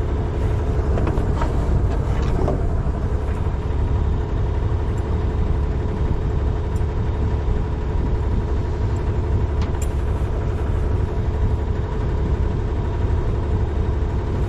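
Sailing yacht's engine running steadily at cruising speed while the boat motors along, an even low rumble with a constant hum.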